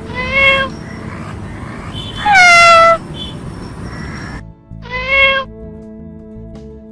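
A kitten meowing three times over soft background music: a short rising meow, then a louder, longer meow that falls in pitch, then another short rising meow.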